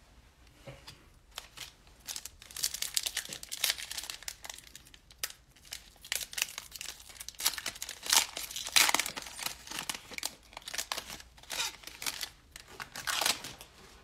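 Cellophane wrapper of a trading-card pack being torn open and crinkled by hand, in irregular crackling bursts.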